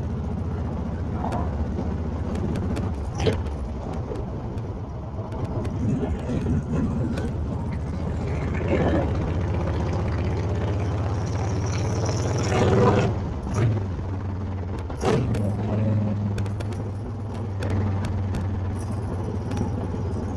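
Honda Fury's 1300cc V-twin engine running at a steady, low, even pace, with a louder swell about two-thirds of the way through and a few sharp knocks.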